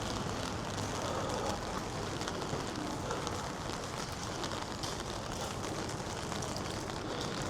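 Steady rain falling on the street: an even hiss with scattered faint drop ticks.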